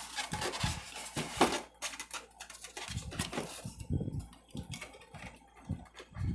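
Scattered light clicks, taps and rustling from hands handling the plastic propeller, spinner and foam parts of an RC airplane, with one sharper knock about a second and a half in.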